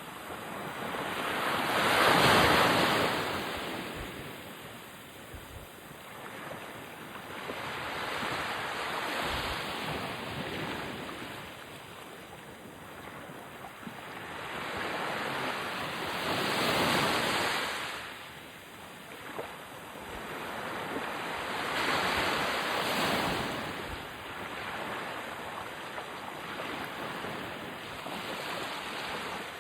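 Ocean waves breaking and washing in, in slow surges that build and fall away every six to eight seconds; the first, about two seconds in, is the loudest.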